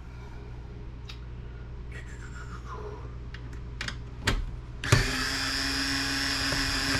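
A couple of sharp clicks, then a power drill spinning steadily for about two seconds near the end.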